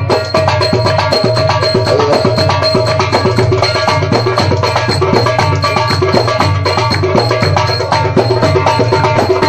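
Live simsimiyya folk band playing an instrumental passage: pitched melody over fast, steady hand percussion.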